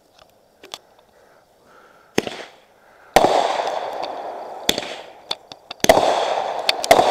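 Aerial fireworks going off: a few faint pops, then a bang about two seconds in and a loud burst about a second later that trails off in a long fading crackle, with more bangs and crackle near the end.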